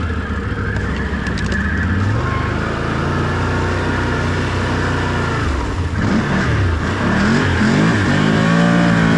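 Can-Am off-road vehicle's engine pulling through pond water. It runs steadily at first, then from about six seconds in revs up and down repeatedly, loudest near the end.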